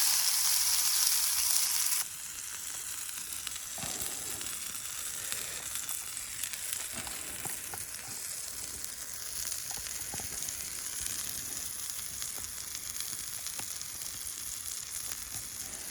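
Tomato halves frying in a small pan over a bush box stove: a steady sizzle, loud at first, that drops abruptly to a quieter sizzle about two seconds in, with a few faint ticks.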